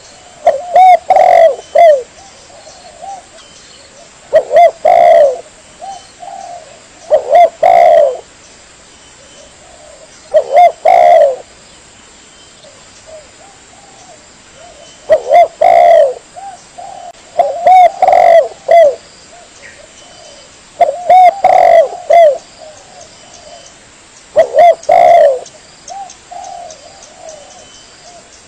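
Spotted dove (tekukur) cooing: a lure-call recording with a short phrase of several coos repeated about every three seconds, eight times, and softer cooing between the phrases.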